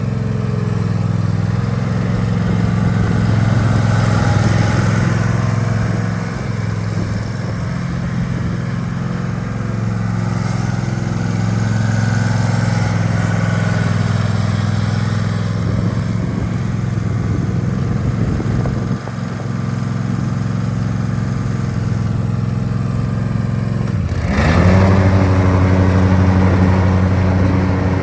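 Husqvarna Z254F zero-turn mower's gasoline engine running steadily. About 24 seconds in the sound dips briefly, then the engine note rises and settles at a steady, clearer pitch.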